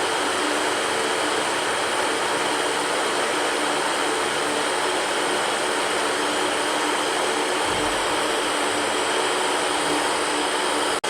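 Electric fan running steadily: an even whooshing hiss of moving air with a faint motor hum underneath. The sound cuts out for an instant near the end.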